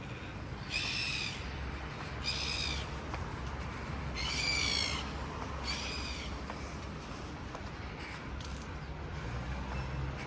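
A bird calling four times, each call about half a second long and coming roughly every second and a half, over a steady low hum.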